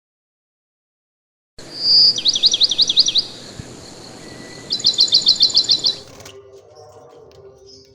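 Bird calling: one short high whistle, then a fast run of high chirps. After a pause comes a second quick run of about ten chirps, over a faint steady hiss.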